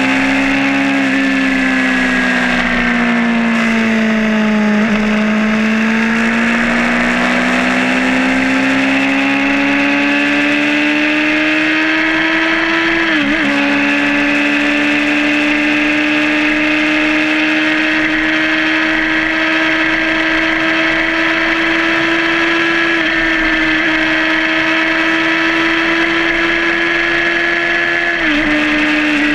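Suzuki GSR600 inline-four motorcycle engine under way on the road. Its note sags a little, then climbs steadily as the bike accelerates, with two quick upshifts: one about halfway through and one near the end, each dropping the revs.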